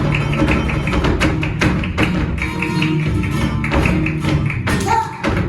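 Flamenco music: guitar under a rapid run of sharp percussive taps, with a pitched line sliding upward near the end.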